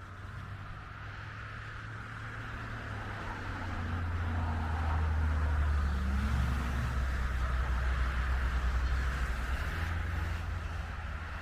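A motor vehicle driving past, its low engine rumble building over a few seconds, loudest in the middle and easing off near the end.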